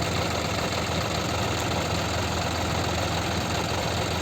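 Tractor engine running steadily at a low, even pace.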